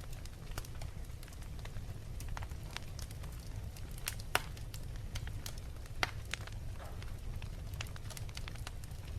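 Wood fire crackling in a fireplace: a steady low rumble with irregular sharp pops, two louder ones about four and six seconds in.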